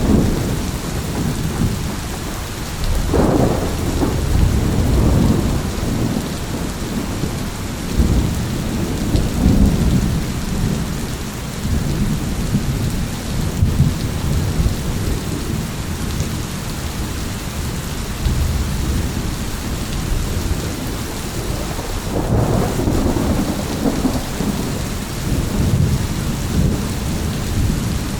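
Thunderstorm: steady heavy rain with rolling thunder rumbling underneath, swelling louder about three seconds in and again near the end.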